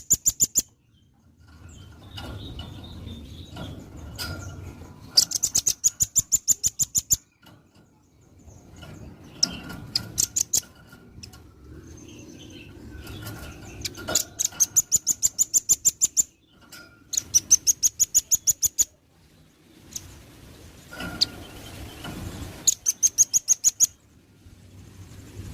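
Velvet-fronted nuthatch calling: rapid trills of sharp, high notes at about seven a second, in bursts of roughly two seconds repeated several times, with quieter gaps between.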